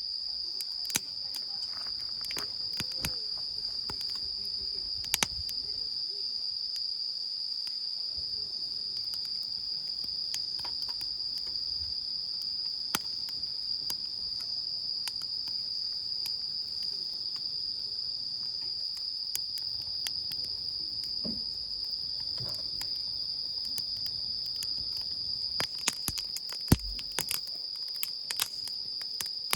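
Crickets or other night insects singing a steady, high-pitched continuous trill, with scattered small clicks and knocks and one louder knock near the end.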